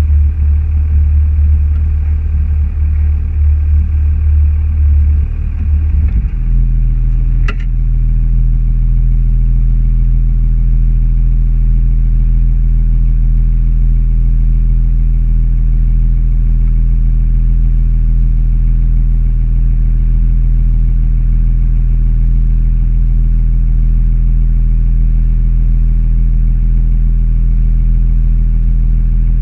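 Car engine running with a loud, steady low drone. About six seconds in its note changes and then holds steady, and a single sharp click comes about a second later.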